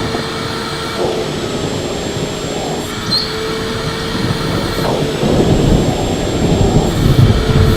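Electric vacuum cleaner running steadily with a constant whine over its rushing noise; from about five seconds in a low, uneven rumble grows louder.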